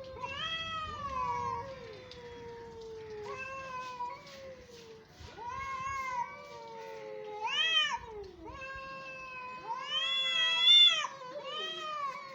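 Two cats yowling at each other in a fighting standoff: long, overlapping, wavering caterwauls, one lower and one higher. The cries rise into louder shrill wails about halfway through and again near the end.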